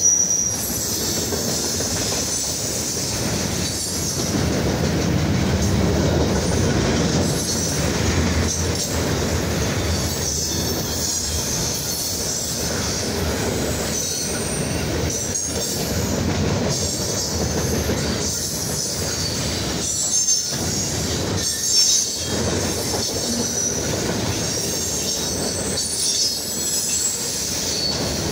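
Freight train of loaded flatcars rolling steadily past, a continuous low rumble of wheels on rail with a high-pitched squeal from the wheels and brief dips every few seconds as the cars go by.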